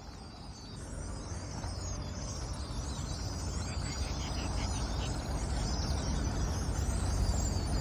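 A large flock of small birds calling, many high chirps overlapping, over a rushing noise that grows steadily louder.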